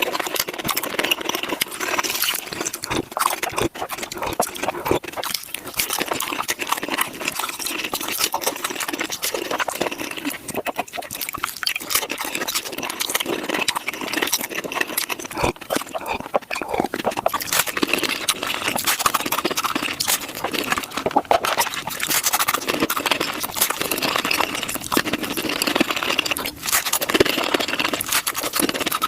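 Eating sounds of someone crunching and chewing tacos, sped up five times, so the crunches and mouth clicks run together into a rapid, unbroken crackle.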